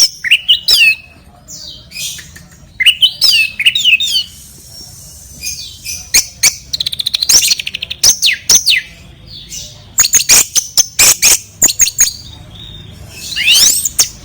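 Sooty-headed bulbul (kutilang) calling in bursts of short sliding whistled chirps, with a fast rattling run of notes midway and a quick series of sharp clipped notes later on.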